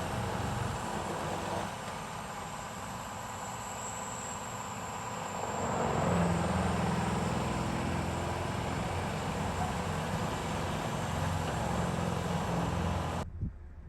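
Steady vehicle running noise, a low rumble with a hiss over it, getting louder about six seconds in and cutting off abruptly near the end.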